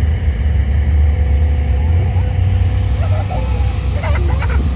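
Race car engines running, a steady low rumble, with faint voices near the end.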